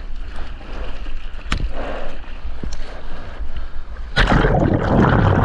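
Seawater sloshing and splashing around a GoPro in the surf, with a low rumble of wind and water on the microphone. About four seconds in, a loud rush of churning water takes over.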